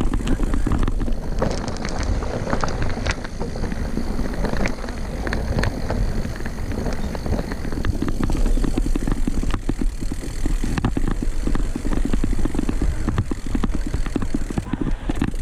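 Mountain bike riding over a rough forest trail: a steady low rumble with frequent rattles and knocks from the bike as it goes over bumps.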